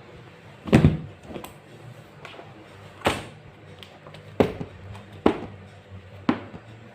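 A series of irregular knocks and thumps, about six over the few seconds, the first the loudest, over a low steady hum.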